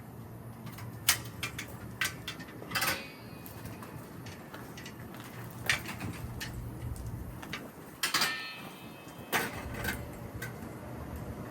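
Household handling sounds: about half a dozen scattered knocks and clinks of objects being moved or set down, one about eight seconds in ringing briefly, over a low steady hum.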